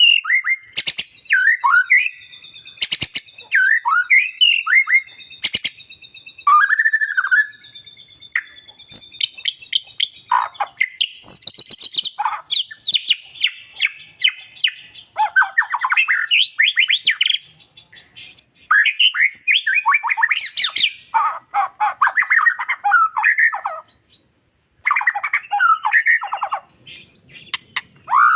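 White-rumped shama (murai batu) singing a long, varied song. It opens with falling whistled notes and sharp clicks over a high held note, then moves to fast, dense trills and chattering phrases.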